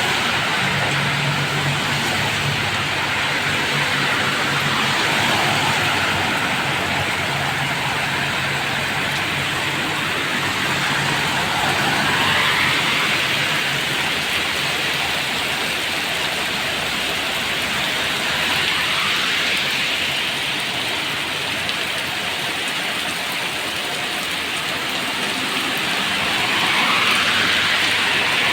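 Steady rain falling with traffic going by on a wet road: tyres hiss past in several distinct passes, and a vehicle engine hums low in the first several seconds.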